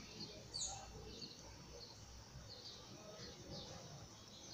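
Faint bird chirping: a scattered string of short, high, downward-sliding chirps, the clearest about half a second in, over quiet room tone.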